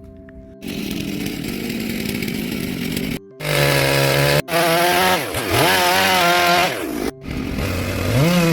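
A chainsaw carving wood. First comes a steady noisy cutting sound, then, across a few abrupt edits, the engine's pitch repeatedly rises and dips as the chain bites into the wood and frees.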